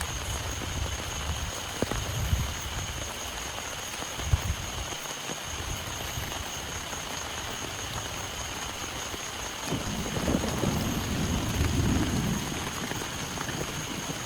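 Heavy rain falling steadily, with a low rumble of thunder that swells about ten seconds in.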